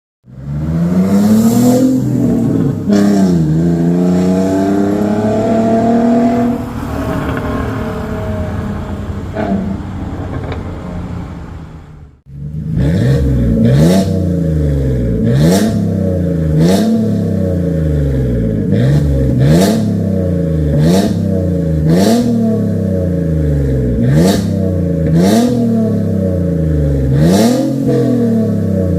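BMW E46 325i's 2.5-litre inline-six revving through an aftermarket catback exhaust: a couple of blips and a longer held rev that falls away, then, after a short break, a steady run of quick throttle blips about every second and a half, each with a short sharp crack at its peak.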